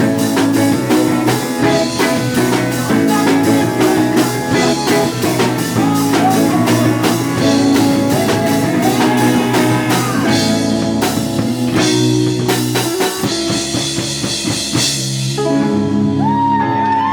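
Live rock band playing: drum kit and guitar with a steady beat. Near the end the drums stop and bending guitar notes ring on as the song closes.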